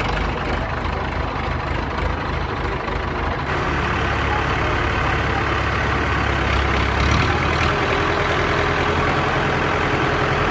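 Heavy diesel engine of an excavator running steadily, growing louder and harsher about three and a half seconds in as it is worked harder.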